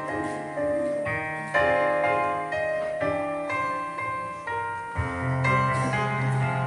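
A piano-voiced keyboard plays the instrumental introduction to a hymn: melody and chords struck about twice a second, each note dying away, with a held low bass note coming in about five seconds in.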